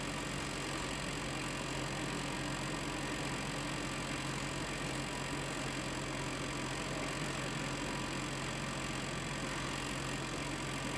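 Freight train of tank cars rolling steadily past the crossing, a continuous even wheel-and-rail noise heard from inside a car.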